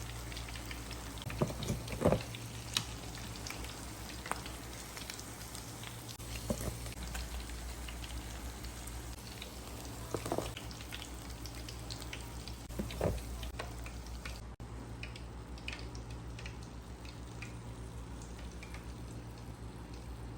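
Chicken frying in hot oil, a steady sizzle with scattered crackles, with a few louder knocks about 2, 10 and 13 seconds in.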